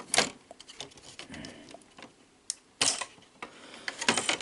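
Sharp clicks and short rattles of plastic and metal parts as a VCR's board and mechanism are pulled straight up and apart by hand, a cluster of them near the end.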